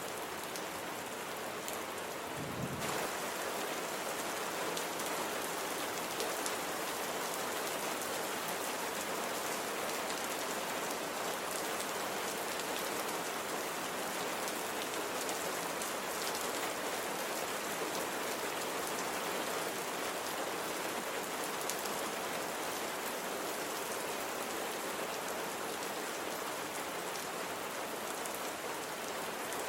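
Steady rain falling on surfaces: an even hiss with scattered drop impacts. It grows slightly louder about three seconds in, then holds steady.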